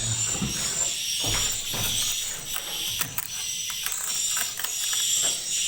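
Edible-nest swiftlets chirping, a high twittering call repeated about twice a second, with a run of short sharp clicks and scrapes in the middle as the nests are worked.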